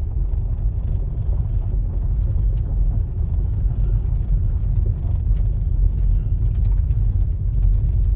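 A loud, steady low rumble that starts and cuts off abruptly.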